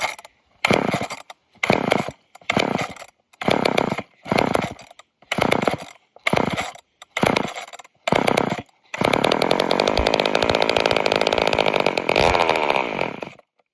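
Old off-brand two-stroke chainsaw engine firing in short bursts about a second apart, then running steadily for four or five seconds before cutting off suddenly near the end. It won't stay running, which the owner puts down to it having a hard time pulling fuel.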